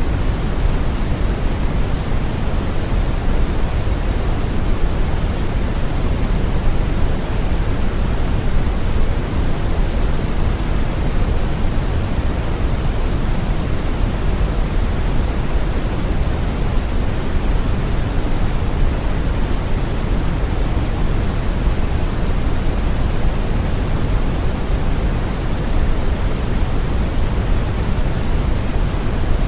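Steady brown noise: a constant, deep rushing hiss, strongest in the low end and falling away toward the highs, with no change or events.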